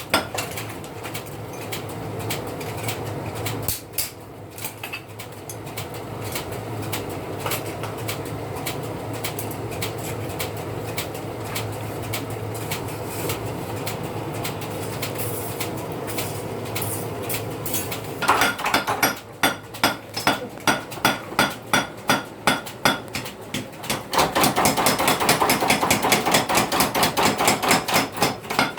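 Steel being hammered at a blacksmith's forge while a sickle blade is forged. At first dense, rapid strikes run over a steady hum. From a little past the middle come separate, louder blows about two a second, which quicken and grow louder near the end.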